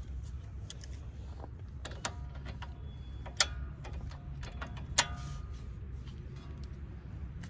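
Metal hand tools clinking against metal parts: scattered light clicks, some of them ringing briefly, with two sharper ringing strikes about three and a half and five seconds in, over a steady low rumble.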